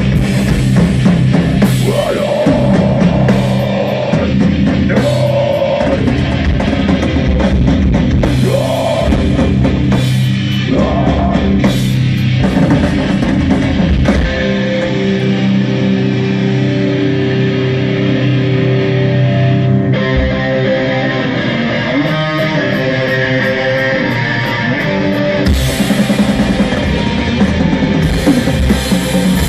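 Live rock band playing an instrumental passage with guitar and a drum kit. The drums drop out midway, leaving held guitar notes, and come back in near the end.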